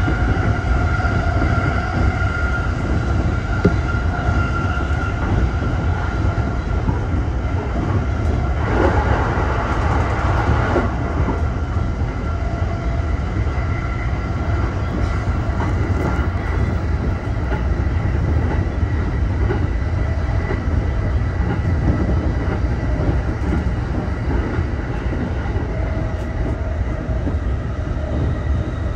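E231-series electric train running along the line, with a steady low rumble and a whine of a few steady tones over it. About nine seconds in, a louder rush of noise swells for about two seconds.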